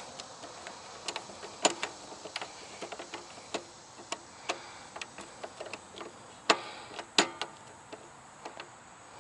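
Irregular light clicks and metal taps from hand work at an electrical breaker panel while a new breaker is fitted, with a few sharper knocks about two seconds in and again near six and a half and seven seconds.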